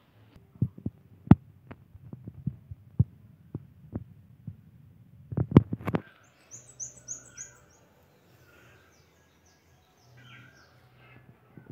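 Irregular knocks and taps of small objects being handled, then from about six seconds in a bird singing: a quick run of high chirps followed by softer calls, over a low hum.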